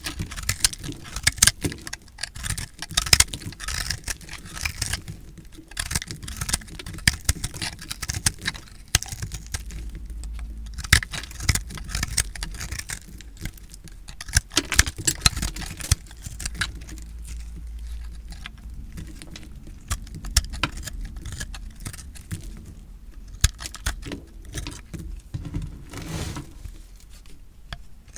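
Recycled soap being cut, crunching with a dense, irregular run of crisp clicks and crackles.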